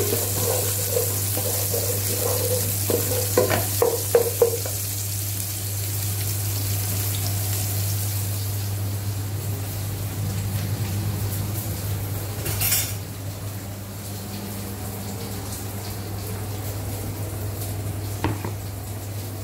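Garlic and onion sizzling as they sauté in hot cooking oil in a pan. A utensil stirs and clinks against the pan in the first few seconds, and there is a brief louder hiss about 13 seconds in. A steady low hum runs underneath.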